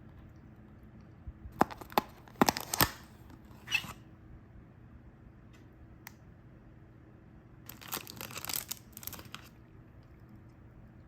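Plastic snack packaging crinkling and tearing as it is opened by hand, in two spells of crisp crackles: one a couple of seconds in and another about eight seconds in.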